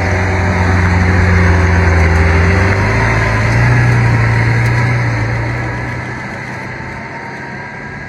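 Lamborghini Centenario's V12 engine running at low revs, its pitch stepping up about three seconds in, then fading away over the last few seconds.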